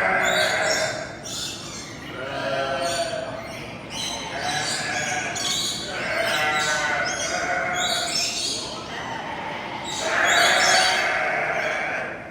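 Farm animals bleating, about six drawn-out, wavering calls one after another.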